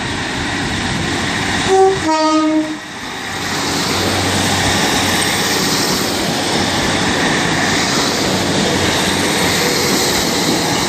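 A departing Class 150 Sprinter diesel multiple unit sounds a two-tone horn about two seconds in, a short high note then a slightly longer lower one, likely as a warning to someone on a level crossing. Its diesel engines and wheels then keep running steadily as it pulls out.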